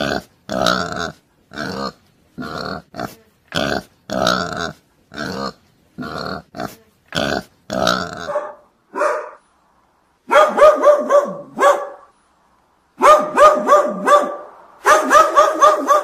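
Pigs grunting in short, regular grunts about twice a second. From about ten seconds in, a dog barks in quick runs of short, sharp barks.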